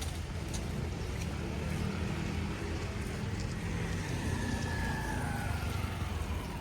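Steady low rumble of road traffic passing, with a faint falling whine from a passing vehicle about four seconds in.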